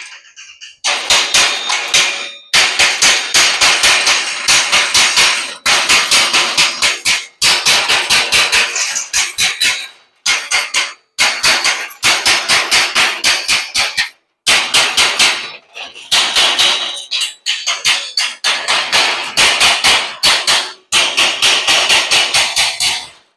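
Chipping hammer striking fresh welds on metal grills in rapid runs of sharp metallic blows, about four or five a second, with short pauses every few seconds. The blows are knocking the welding flux off the welds so the rust-preventing primer will take.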